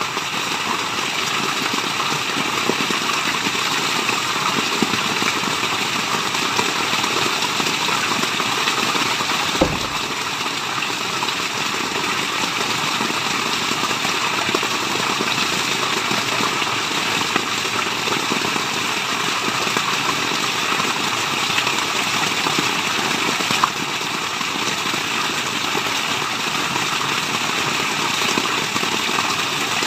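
Steady rushing water, a waterfall's even roar of white noise, with one brief click about a third of the way in.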